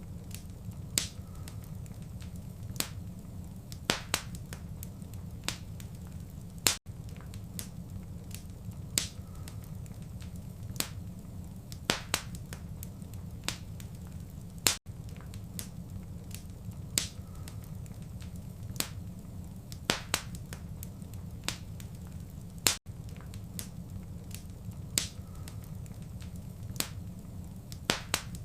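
Wood fire crackling in a fireplace: a steady low rumble of flame with irregular sharp pops and snaps, roughly one or two a second. The sound drops out briefly about every eight seconds.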